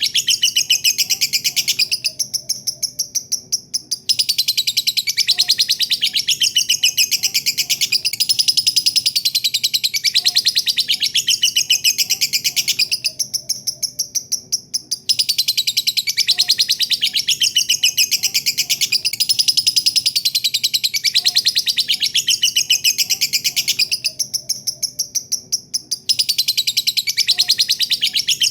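Lovebird giving its long 'ngekek' song: a rapid, high-pitched chattering trill held in long bouts, each about nine seconds, broken by short pauses where it tails off.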